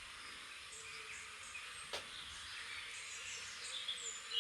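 Birds chirping in short, high notes over a steady high hiss of outdoor nature ambience, with a single sharp click about two seconds in and a louder call near the end.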